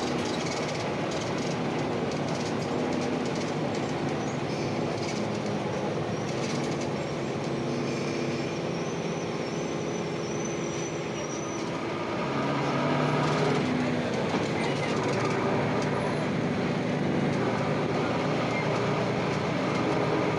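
Ikarus-260 bus heard from inside while it drives: a steady diesel engine and road rumble. The engine note grows louder about twelve seconds in.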